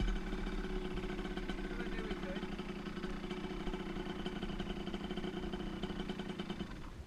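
Dirt bike engine idling steadily at an even pitch, cutting off near the end.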